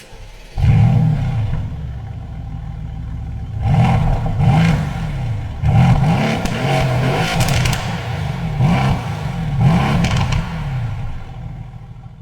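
Mercedes-AMG GT S 4.0-litre twin-turbo V8 firing up with a loud flare about half a second in and settling to idle, then revved in a series of blips, the pitch rising and falling each time. The sound dies away near the end.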